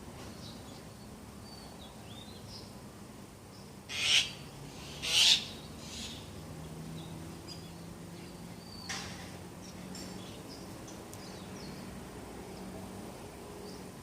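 Birds calling in the morning: scattered short high chirps throughout, with two loud harsh calls about four and five seconds in and a shorter one near nine seconds. A faint low steady hum runs underneath.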